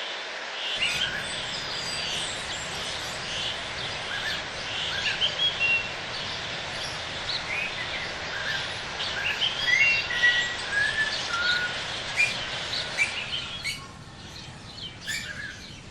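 Many birds chirping and calling in rainforest, short calls and brief whistled glides overlapping over a steady background hiss that thins out near the end.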